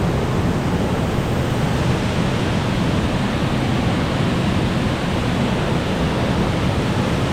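Loud, steady rush of water: an even noise that does not change.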